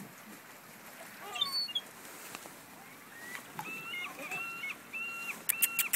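Seagulls calling: a brief squawk about a second in, then from about halfway a quick run of evenly spaced, level calls, with a few sharp clicks near the end.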